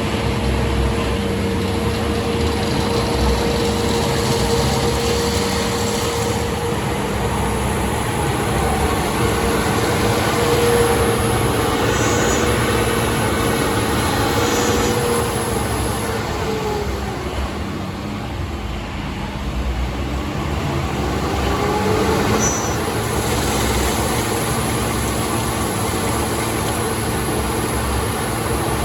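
Railway ballast spreader working on the track: its heavy engine and machinery run steadily, with the pitch falling and then climbing again a little past halfway.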